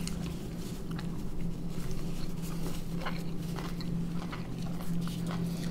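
Close-miked chewing of a forkful of marinated cabbage salad, with a few light clicks of the fork against the bowl, over a steady low hum.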